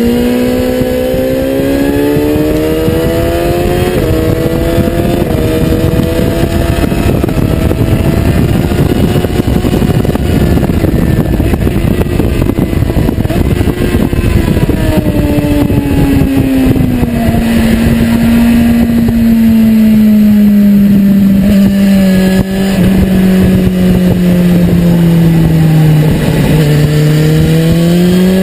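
BMW S1000RR's inline-four engine running hard at high revs. Its pitch climbs, holds high, sinks slowly through the middle and climbs again near the end, over a steady rush of wind noise.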